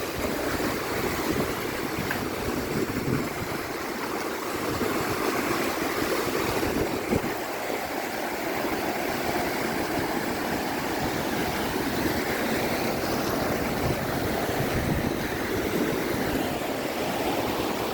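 Sea waves washing onto the beach: a steady rush of surf.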